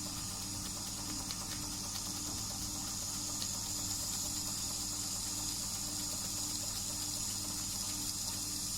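Doll & Co 339/2 stationary model steam engine running: a steady high hiss of steam over a low, even hum.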